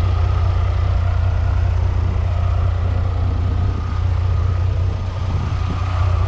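1993 Chevy Cheyenne 1500's 4.3-liter V6 idling steadily with no knock, with a faint steady whine over it.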